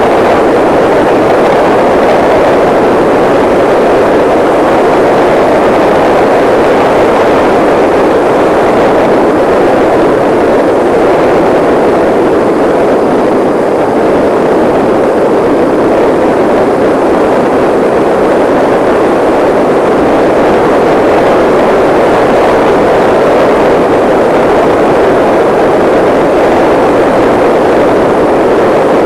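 Steady, loud rushing of wind over the microphone during a ride at speed, with no breaks or distinct events.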